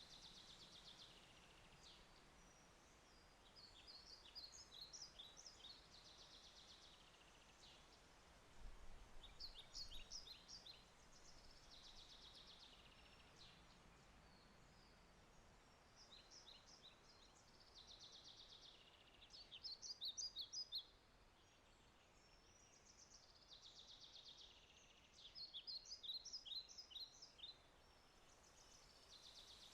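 A songbird repeating short high phrases of quick notes and trills every few seconds, the loudest about twenty seconds in, over a faint steady hiss.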